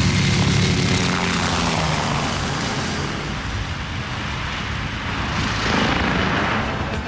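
Small electric RC scale helicopter (Bo-105 model, Eachine C186/E200) in flight: a steady whir of motor and rotor. A hum fades out after the first second or so, and the sound swells louder about five to six seconds in.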